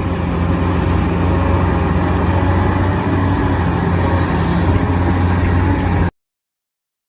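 Radio-controlled model construction machine running: a steady low hum with a thin high whine above it, cutting off abruptly about six seconds in.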